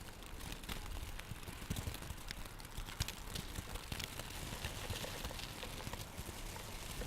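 Hailstones striking the ground and nearby surfaces: many irregular sharp ticks over a steady hiss.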